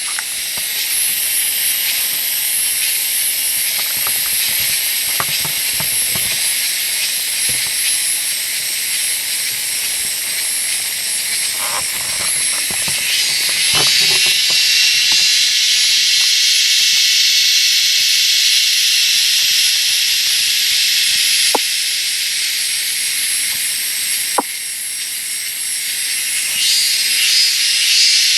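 Dense, steady high-pitched drone of jungle insects such as cicadas, growing louder about halfway through. A few soft crackles and two sharp clicks sound in the later part.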